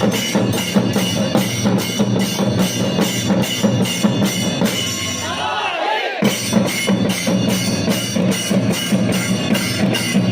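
Percussion music: drum and cymbal strokes at about three a second over a steady low drone, breaking off briefly about six seconds in and then resuming.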